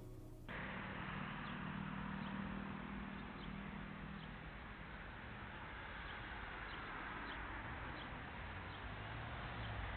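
Steady low rumble of a vehicle on the move, recorded through a dashcam's low-quality microphone, with faint short high chirps now and then.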